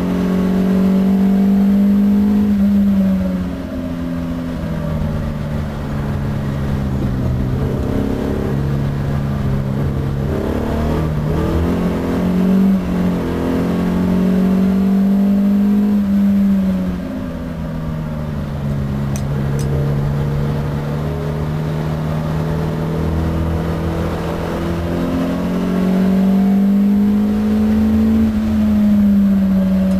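Alfa Romeo Bertone coupe's twin-cam four-cylinder engine heard from inside the cabin at track pace. Its pitch climbs as it pulls through the revs, then falls back at each shift or lift, several times over.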